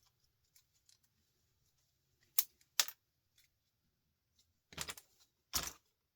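Scattered sharp clicks and clinks of small metal pieces being handled on a workbench: two light clicks about halfway in, then a louder cluster near the end.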